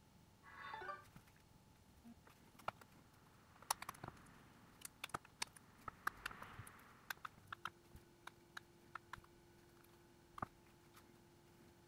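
Faint, scattered clicks and taps of small tools and phone parts being handled during smartphone repair, with a brief scrape about half a second in.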